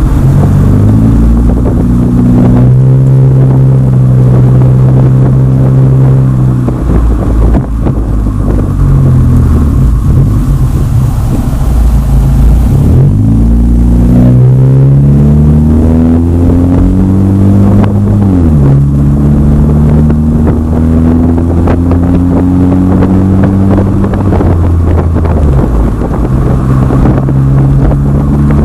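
Exhaust of a 2010 Acura TSX through aftermarket Megan Racing mufflers while driving. The engine note climbs under acceleration and drops sharply at each gear change, about three times.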